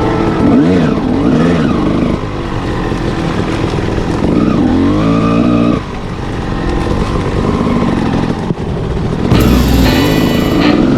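Two-stroke dirt bike engine revving up and down repeatedly while riding a trail, with the pitch climbing and falling several times.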